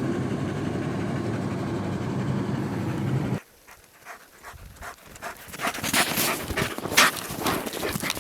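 Steady car road and engine noise inside the cabin that cuts off abruptly about three seconds in, followed by a dog panting in quick, uneven breaths that grow louder.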